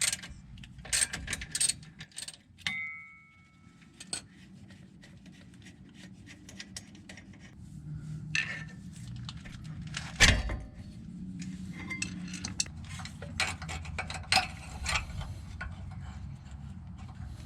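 Metal clinking and clanking of tools and brake hardware as a rear disc brake caliper is unbolted and lifted off: scattered clicks, a brief metallic ring about three seconds in, and a heavy clunk about ten seconds in.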